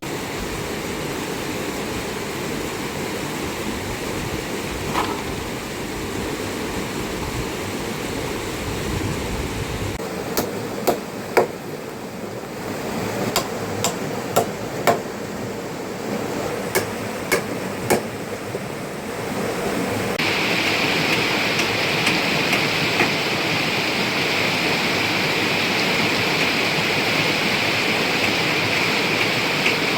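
Steady rain falling, with a run of about ten sharp knocks partway through; about two-thirds in, the rain hiss grows louder and brighter.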